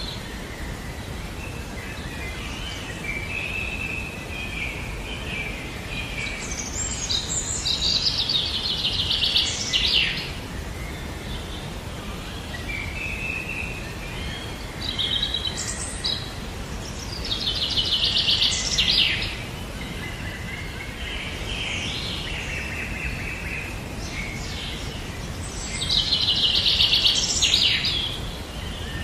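A songbird singing a repeated song about every nine or ten seconds, three times: each song starts with a lower warbling run and ends in a loud rapid trill. Under it runs a steady low background rumble.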